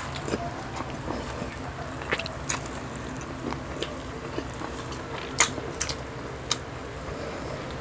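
Close-up eating sounds: chewing and biting of grilled food, with scattered small clicks and crunches, a few sharper ones about five to six and a half seconds in.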